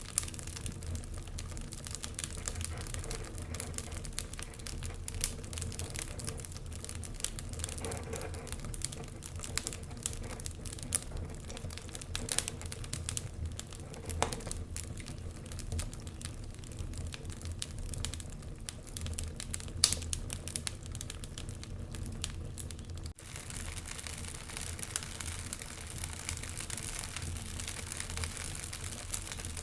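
Wood fire crackling in a fireplace: irregular sharp pops and snaps over a steady low rumble, with one louder snap about twenty seconds in.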